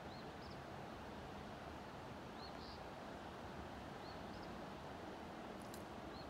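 A small bird calling in woodland: a pair of short, high chirps about every two seconds, faint over a steady low hiss of outdoor background noise.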